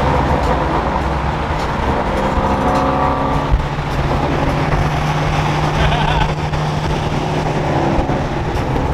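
Car engine running at freeway speed, heard from inside a Mustang's cabin with road and tyre noise. The engine note is steady, and a stack of engine tones stands out for a second or two near the middle.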